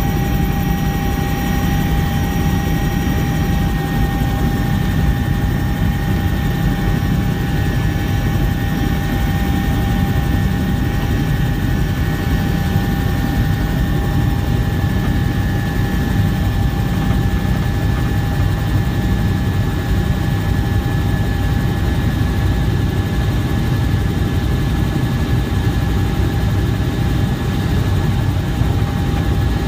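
Bell 230 twin-engine helicopter running steadily: a loud rotor and engine rumble with a constant high turbine whine over it.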